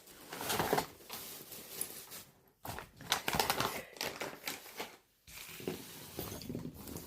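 Close rustling and crinkling handling noise with small irregular knocks, in several stretches separated by brief pauses, as things are moved about near the microphone.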